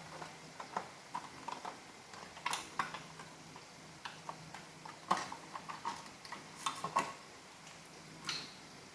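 Irregular light clicks and taps of small hard plastic parts being handled and fitted together, as on a Roomba robot vacuum being reassembled. The sharpest knocks come about five seconds in and again around seven seconds.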